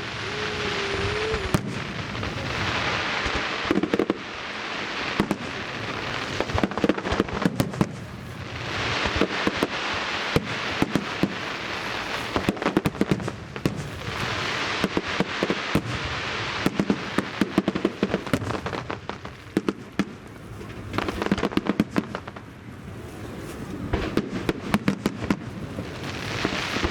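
Fireworks display: aerial shells bursting in rapid succession with many sharp bangs and crackling, coming in waves that swell every few seconds.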